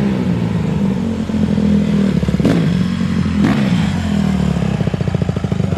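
Honda CRF150R dirt bike's single-cylinder four-stroke engine running, blipped twice near the middle, then settling to an even idle.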